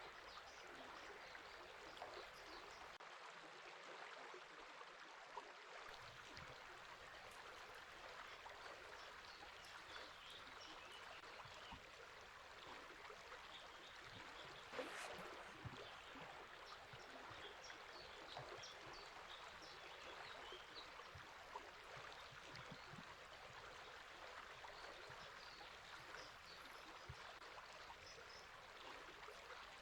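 Faint steady rush of a river flowing, with small birds chirping briefly here and there over it.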